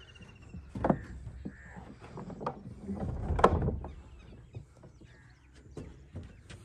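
Birds calling among scattered knocks and rustles, with the loudest calls about a second in and again about three and a half seconds in.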